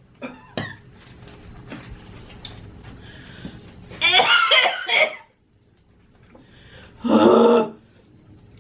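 A woman's wordless reactions to the burn of very hot chili chocolate: coughing and a groan about four seconds in, then a held groan about seven seconds in, with a few short mouth clicks at the start.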